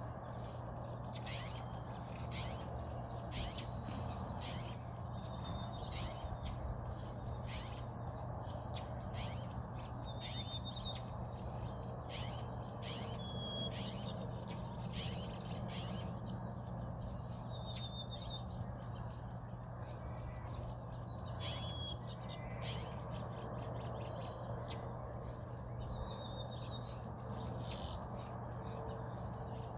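Small birds chirping repeatedly, with short sharp chips and brief high whistled notes, over a steady low hum and background noise.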